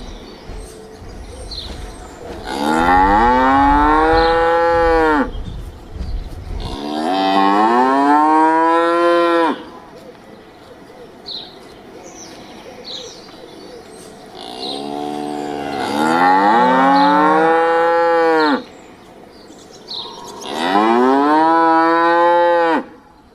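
Cow mooing four times, each a long call of two to four seconds whose pitch drops at the end.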